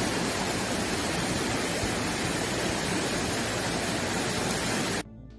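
Steady, loud rush of water, like floodwater pouring through a street. It cuts off abruptly about five seconds in.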